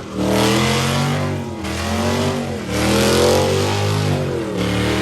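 Car engine revved hard over and over, its pitch climbing and falling back in three swells.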